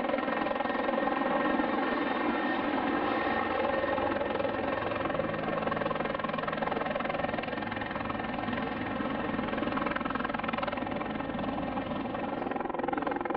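Aircraft engine running steadily: a drone of many steady tones, with a faint low pulsing from about five seconds in.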